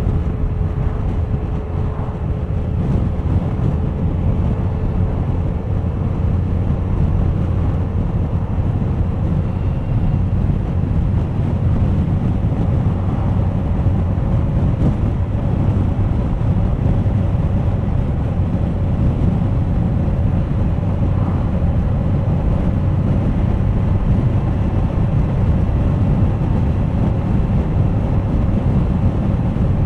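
Wind rushing over the camera microphone on a moving motorcycle, with the Suzuki GSX1250FA's inline-four engine running steadily underneath.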